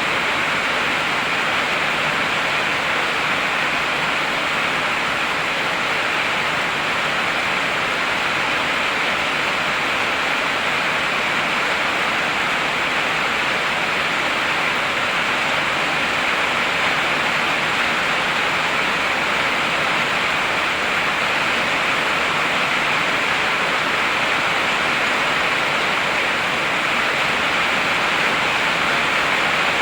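Heavy rain falling steadily, an even, unbroken hiss with no thunder or other events.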